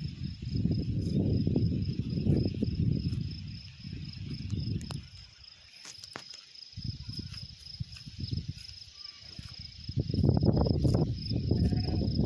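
An insect trilling on one steady high note throughout, over a loud low rumble that comes in gusts and fades out for several seconds in the middle before returning.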